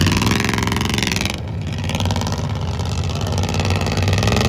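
A motor vehicle's engine running, louder and higher-pitched for about the first second and a half, then settling to a steadier, lower run.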